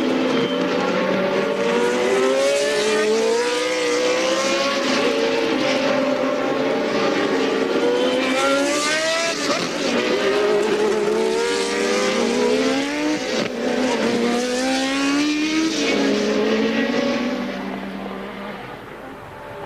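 Several 1983 Formula One car engines running hard on track, their pitch climbing through the revs and dropping back at each gear change, more than one car heard at once. The sound fades away near the end.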